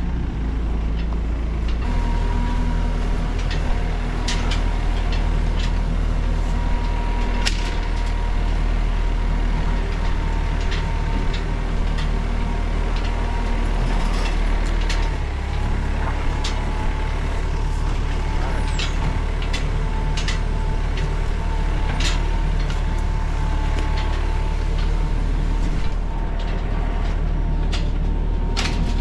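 A vehicle engine running steadily, with its note shifting about two seconds in and a steady whine above it. Scattered knocks and rattles sound throughout.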